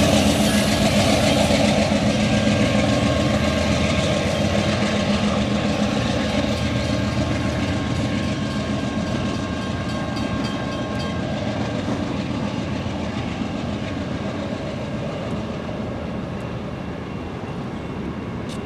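Amtrak passenger train rolling past on the rails, wheels clicking over the rail joints, the noise slowly fading as the train moves away.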